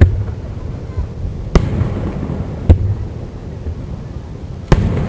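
Aerial firework shells bursting: four sharp booms, irregularly spaced a second or two apart, with a low rumble carrying on between them.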